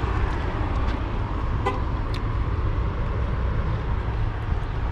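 Motorcycle riding at speed: steady wind rush on the microphone over the low drone of the engine and road.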